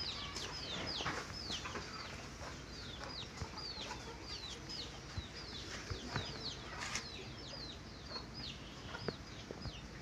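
Birds chirping without pause: a steady stream of short, high, falling chirps, several a second.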